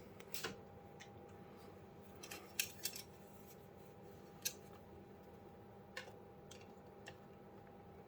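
Scattered light clicks and taps of PC case hardware being handled and taken apart, over a faint steady hum.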